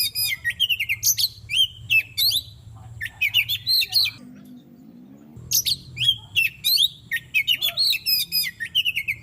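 Oriental magpie-robin (kacer) singing a fast, varied song of sweeping whistles and chattering notes. The song breaks off about four seconds in and starts again a second later, over a low steady hum.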